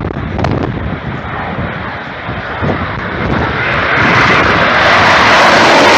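Aircraft engine noise from a display aircraft, growing louder and brighter about four seconds in as it comes closer.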